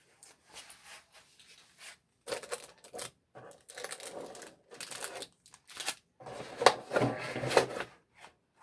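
Packaging of a trading-card collection box being torn open and handled: crinkling and tearing in irregular bursts, several spells of a second or so with short pauses between.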